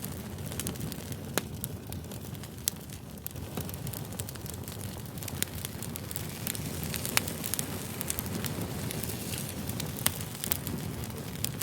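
Wood campfire burning: a steady low rush with sharp crackling pops every second or two.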